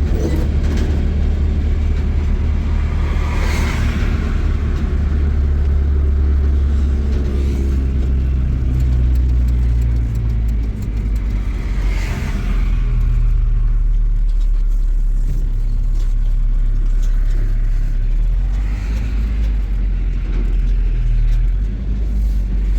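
Motor vehicle engine running steadily while driving, a loud low hum that shifts in pitch about halfway through.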